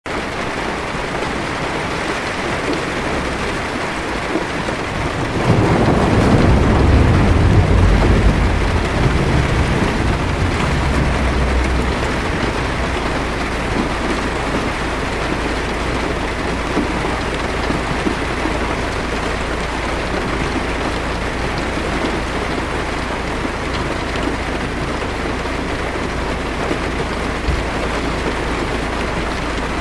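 Heavy rain falling steadily on a car's windshield and roof. A low roll of thunder rumbles in about five seconds in and dies away over the next several seconds.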